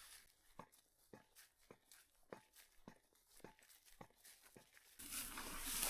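Footsteps walking on a bush trail: a steady run of light, sharp steps about three a second. About five seconds in, a louder hiss comes in.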